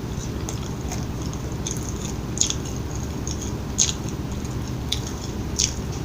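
Close-miked chewing of McDonald's fast food, a steady low rumble with a few sharp, wet clicks, three of them louder than the rest.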